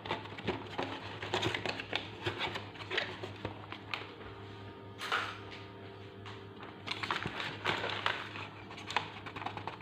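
A small spoon clicking and scraping against a container and bowl as starch is scooped out and added to a mixture, in many small irregular taps.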